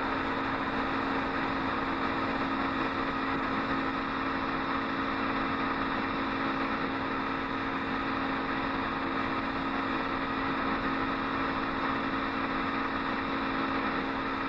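Film projector running: a steady mechanical hum and whir with a hiss, no other sound.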